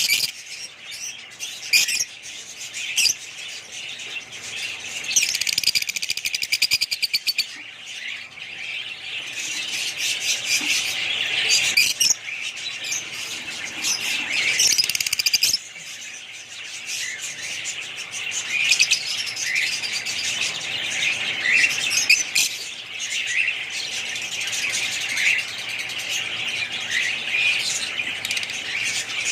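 Many small birds chirping and chattering at once, with calls constantly overlapping and a rapid trill a few seconds in.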